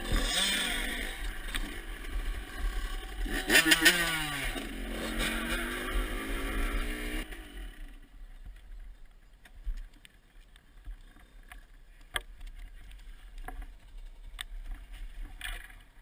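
Dirt bike engine revving up and down several times, then going quiet about seven seconds in, leaving only scattered small clicks.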